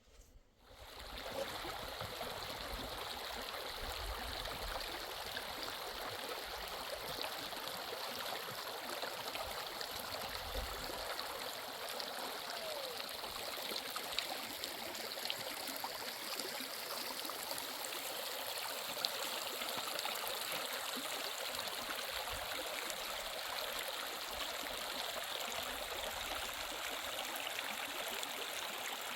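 Mountain stream rushing steadily, fading in about a second in.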